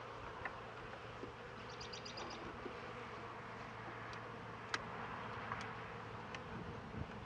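Italian honeybees buzzing steadily around an open Langstroth hive, with a few sharp clicks scattered through.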